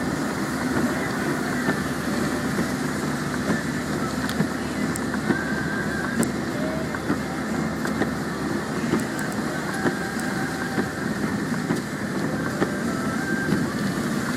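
A vehicle driving in heavy rain on a wet expressway: a steady rush of tyre and rain noise, with many short sharp ticks scattered through it.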